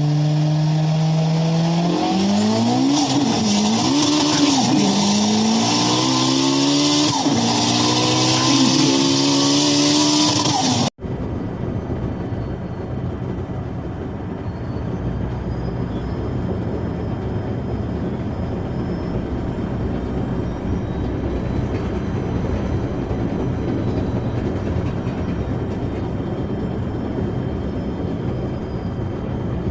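A car engine revving up and down in pitch for about eleven seconds, then cutting off abruptly; after that a steady rushing noise with a faint high whine.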